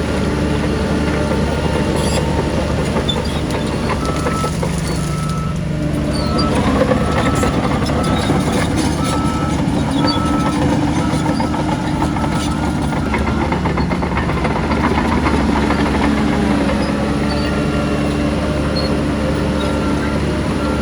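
Heavy diesel earthmoving machinery, a bulldozer and dump trucks, running steadily under load. A short beep repeats about once a second for several seconds in the middle.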